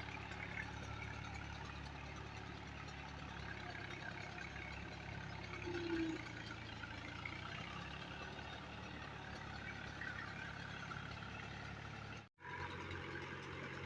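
Al-Ghazi tractor's diesel engine idling steadily, with a brief higher tone about six seconds in. The sound cuts out for an instant near the end and resumes slightly changed.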